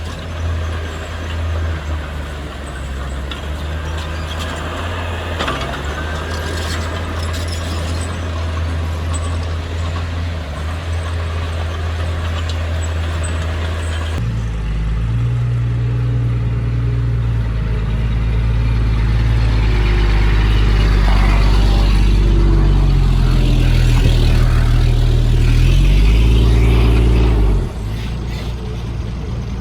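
Heavy diesel engine of an earthmoving machine running steadily. About halfway through it abruptly becomes louder and deeper, as if working hard under load, and near the end it drops back sharply.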